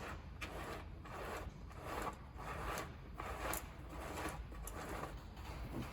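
Repeated rubbing or scraping strokes, about one and a half per second, made by hand work on the chainsaw's bar and chain.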